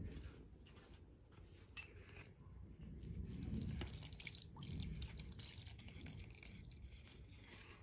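Water dripping and splashing in a kitchen sink, with scattered small clicks and knocks.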